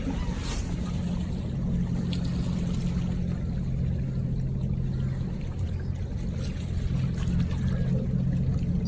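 River water trickling and pouring over a steady low hum.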